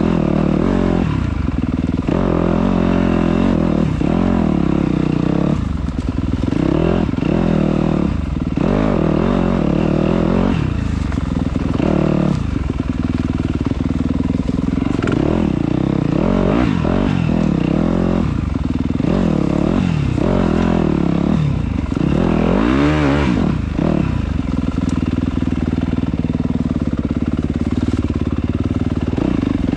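Dirt bike engine revving up and down over and over as it is ridden hard along a trail, the pitch rising and falling every second or two. Around 23 seconds in there is a sharp rise and fall.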